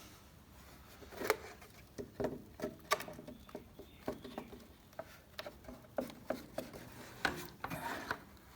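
Irregular light clicks and knocks, a dozen or so, of parts being handled and shifted about by hand.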